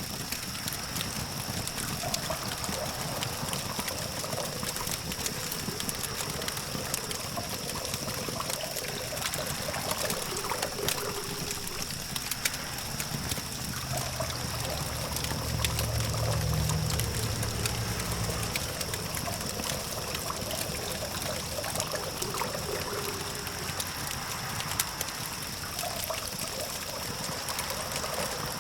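Campfire crackling with frequent sharp pops over a steady hiss, against a distant traffic hum and a steady high-pitched tone. A low rumble swells for a few seconds about halfway through, then fades.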